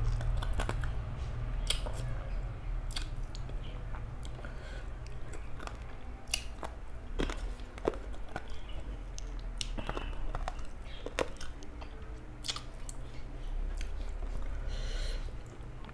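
A person chewing a mouthful of rice and curry close to the microphone, with irregular wet mouth clicks and smacks, over a low steady hum.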